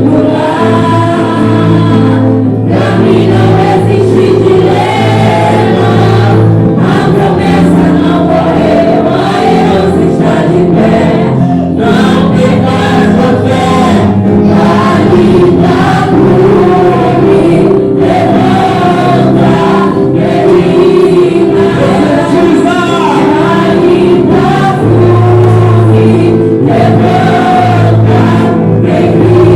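Church worship music: a choir singing over sustained instrumental chords, with long held low bass notes underneath.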